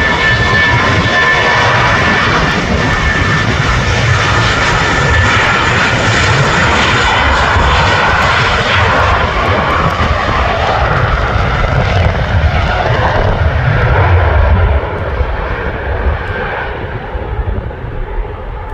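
Jet airliner's engines running loud, a dense roar with a steady high whine that drops out about five seconds in; from about fifteen seconds in the roar loses its top and fades as the aircraft moves away.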